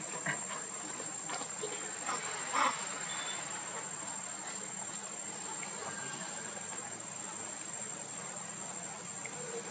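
Steady high-pitched insect trill, like crickets, over low background noise, with a few brief soft sounds, the clearest about two and a half seconds in.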